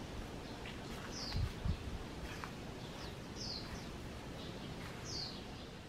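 A bird calling in a garden: a short, high note sliding downward, repeated about every two seconds, with fainter chirps between, over a steady outdoor hiss. A couple of low bumps come about a second and a half in.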